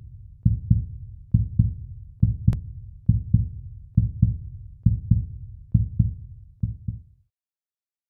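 A heartbeat sound effect: steady paired low thumps, lub-dub, a little over one beat per second, about eight beats that stop abruptly near the end.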